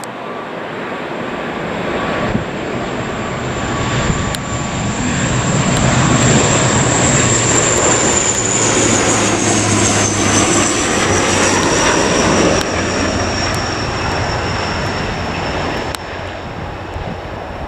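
An airliner's engines passing close by. The roar builds to a peak and then eases, and a high whine slides down in pitch as the aircraft goes past.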